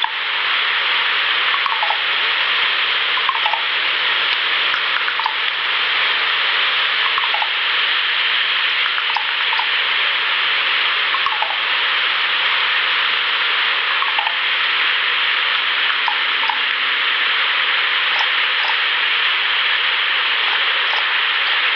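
Steady rushing hiss like running water, with short falling chirps every second or two.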